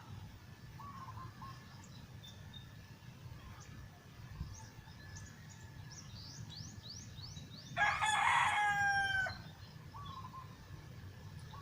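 A rooster crows once about eight seconds in, one loud call of about a second and a half. Just before it, a small bird gives a quick run of rising high chirps, and faint short calls sound in the background.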